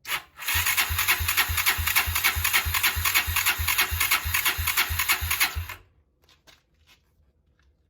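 Electric starter cranking a Honda GB250's single-cylinder four-stroke engine, opening with a click, then a steady beat about three times a second for about five seconds before stopping suddenly. The engine does not catch.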